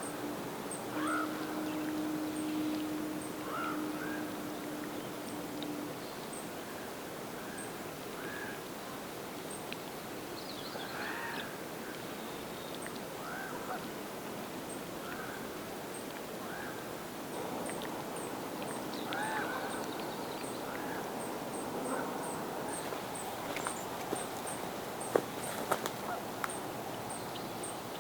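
Birds giving loud, harsh, screaming calls, one short call every second or two, over a calm lakeside evening. A faint steady hum runs for a few seconds near the start, and a few sharp clicks come near the end.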